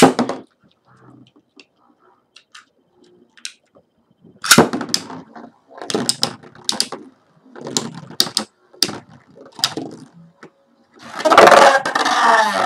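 Sharp plastic clicks and clatters of Beyblade spinning tops and launchers being handled between rounds, ending in a longer, denser rattle near the end.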